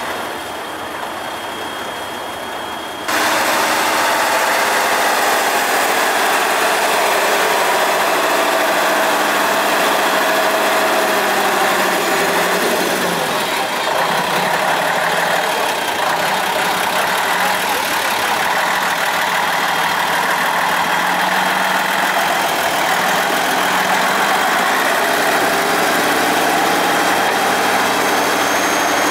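Praga V3S six-wheel-drive trial truck's engine working hard, its pitch rising and falling as it is revved. The level jumps up suddenly about three seconds in and stays loud.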